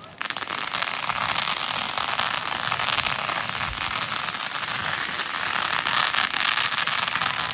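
Fireworks crackling, a dense continuous fizz of tiny pops and snaps that starts suddenly and keeps going.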